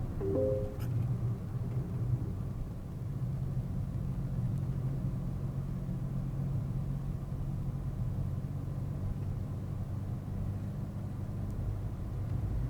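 A car driving, heard from inside the cabin: a steady low rumble of engine and road noise with a held engine drone. A brief tone sounds about half a second in.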